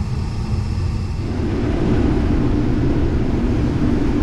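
Case IH 2388 combine harvester running while shelling corn, heard from inside the cab as a steady low drone that grows fuller about a second in.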